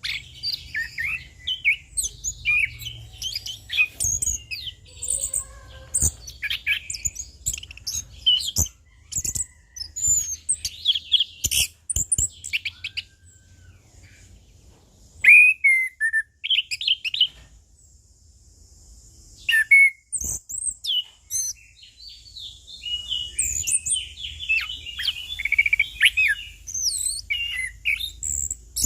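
Orange-headed thrush singing a long run of rapid, varied, twittering phrases, with short lulls about halfway through. A few sharp clicks sound in the first half.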